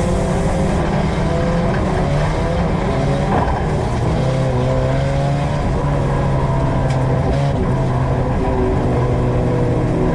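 USRA Tuner dirt-track race car's engine running hard, heard from inside the cockpit. The pitch drops about three seconds in, holds lower through the middle, and rises again near the end as the throttle is lifted and reapplied.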